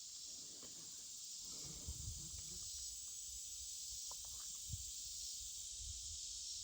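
Faint steady high hiss, with a few soft knocks about two seconds in and again near five seconds.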